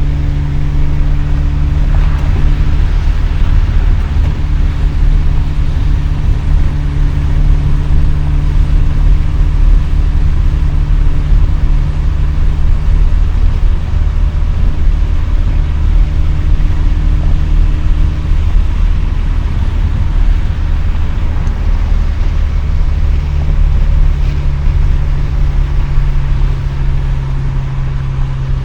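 Mazda RX-7's twin-rotor rotary engine through an RE Amemiya Dolphin Tail 90 Curl exhaust, heard from inside the cabin with the windows down. It holds a steady engine speed with a constant, even drone, as when cruising.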